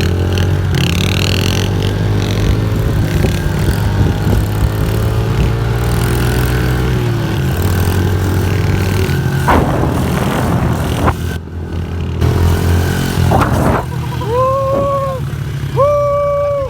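Pit bike engine running and revving, its pitch rising and falling, with short bursts of rushing noise about ten and thirteen seconds in. Near the end, a few drawn-out rising-and-falling calls from a voice.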